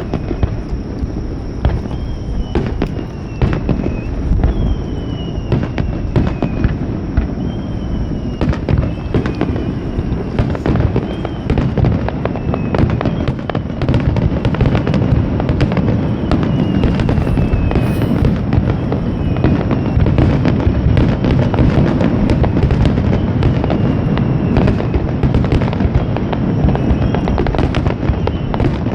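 A fireworks finale barrage: a continuous rapid stream of booming shell bursts and crackling, with short falling whistles over the top every few seconds. It grows denser and louder about halfway through.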